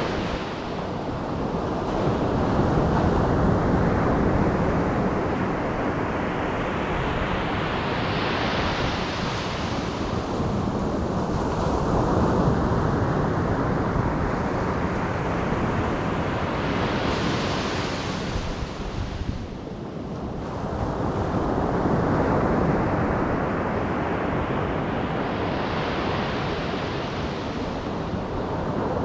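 Ocean surf: waves breaking on the beach about every eight or nine seconds. Each wave builds to a rising hiss and then washes back, over a steady rumble of the sea.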